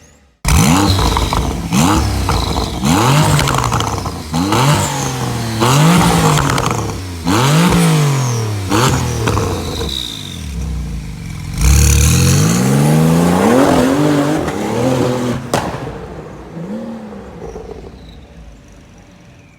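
Porsche 911 Turbo S twin-turbo flat-six through a custom sports exhaust, revved hard again and again, its pitch climbing and falling back every second or so. About twelve seconds in the sound jumps suddenly to a new loud burst of revs, which then fades away over the last few seconds.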